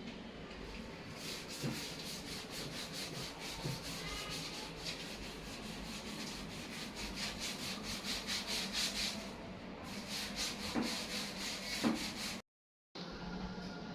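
Scrubbing: something rubbed back and forth over a hard surface in quick, even strokes, several a second, while cleaning washing-machine parts. It cuts out for a moment near the end.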